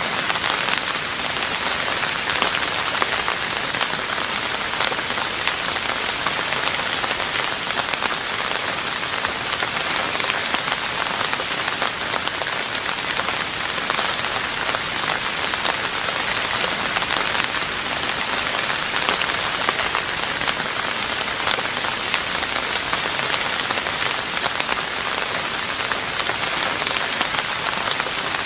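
Steady rain falling on a roof: a dense, even hiss of countless small drop impacts that holds level throughout.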